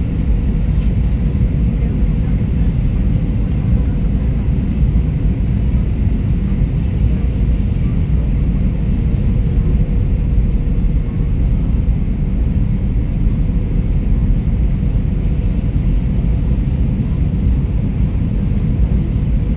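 Steady cabin noise of an Airbus A320-214 in flight on approach: an even, loud rumble of engines and airflow with a faint steady hum.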